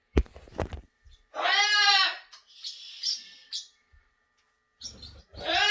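Cockatoo calling: two loud, drawn-out calls about three seconds apart, each rising and then falling in pitch. A couple of knocks come just before the first call, and a softer hiss falls between the two.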